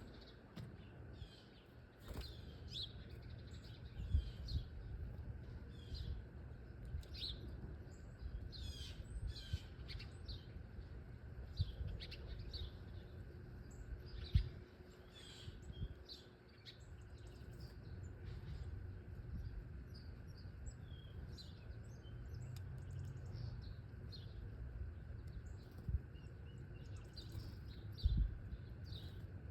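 Small wild birds chirping and calling throughout, many short high chirps, over a steady low outdoor rumble with a few brief low thumps.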